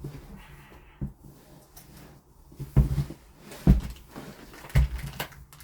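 Knocks and clunks of door-lock parts being handled and fitted against a door, about five separate knocks spread over a few seconds, the loudest in the middle.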